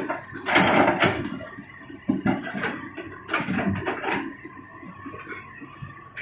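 Irregular clatter of hard knocks and scrapes, coming in several bursts during the first four seconds and then fading to quieter ticks.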